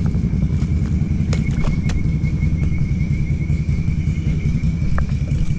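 ATV engine idling with a steady low rumble and a thin, steady high whine, with a few light clicks.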